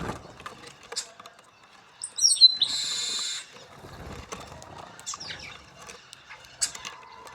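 Birds calling while feeding: a quick run of high falling chirps about two seconds in, then a loud, harsh, buzzy call lasting nearly a second, with scattered short clicks and faint calls around them.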